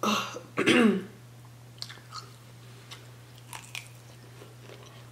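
A person chewing seafood close to the microphone, with soft wet mouth clicks. In the first second there are two short, loud vocal sounds from the eater.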